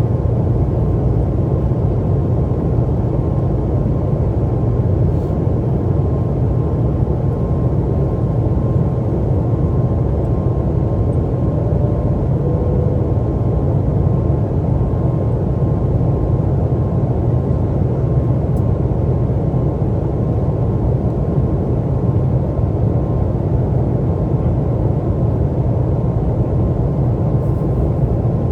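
Steady roar of a jet airliner's engines and airflow in flight, heard from inside the cabin, deep and unchanging, with a faint steady whine.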